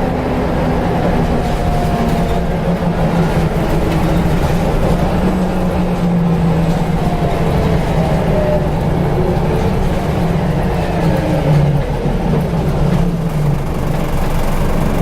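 Scania L94UB bus's diesel engine running under way, heard from inside the saloon, with the whine of its ZF automatic gearbox gliding up and down in pitch above the steady engine drone.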